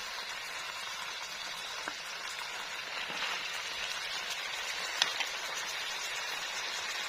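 Chicken feet and heads with spice paste sizzling steadily in a frying pan. A sharp click, likely a utensil against the pan, comes about five seconds in, with a fainter one near two seconds.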